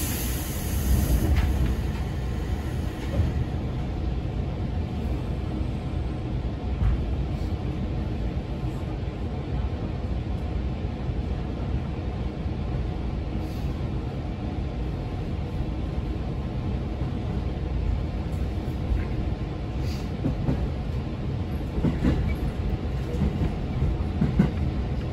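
Local electric train on the JR Chuo Main Line running, a steady rumble of wheels and running gear as heard from inside the carriage, with a brief hiss in the first couple of seconds.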